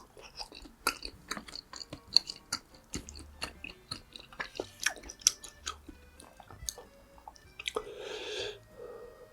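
Close-miked chewing of food: wet, sticky mouth clicks and smacks with some crunching, irregular and continuous. A breathy rush of air about eight seconds in.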